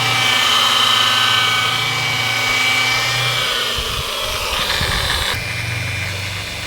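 Electric car polishing machine running steadily, buffing rubbing compound into the paint to take out sanding marks; its hum and whine waver and shift pitch a little past halfway, then steady again.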